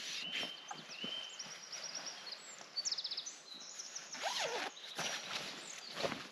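Wild birds singing: a run of short chirps and quick trills, with a lower gliding call about four seconds in, over rustling steps on the forest floor.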